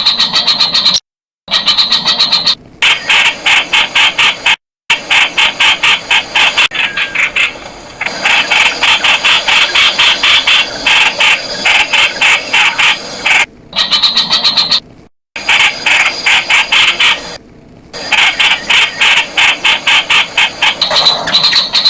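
Streak-eared Bulbul (Blanford's Bulbul) calling: a rapid series of sharp, repeated notes in runs of several seconds, broken by short gaps.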